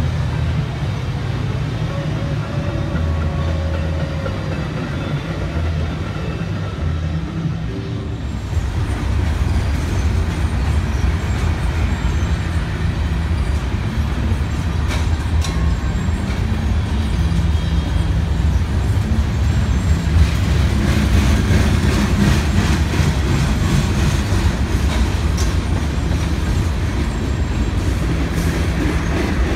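A Metra bilevel commuter train rolls past with a steady low diesel rumble. About eight seconds in it gives way to a BNSF mixed freight train: boxcars, tank cars and hoppers roll by with a clickety-clack of wheels over rail joints, over the low rumble of diesel locomotives.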